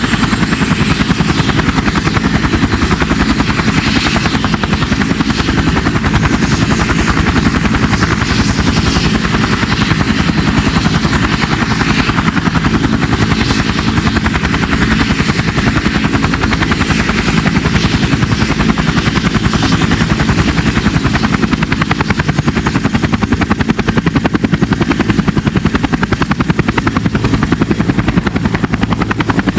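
CH-47 Chinook tandem-rotor helicopter running close by: a steady fast chop from the two rotors over the whine of its turbine engines.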